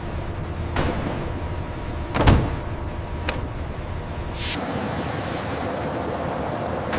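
Steady machinery hum with a few knocks, the loudest a little over two seconds in, and a short hiss a little past the middle.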